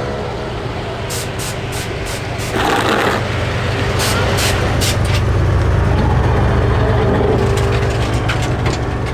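Vehicle engines running with a steady low hum, a short hiss about three seconds in, and scattered clicks, with voices in the background.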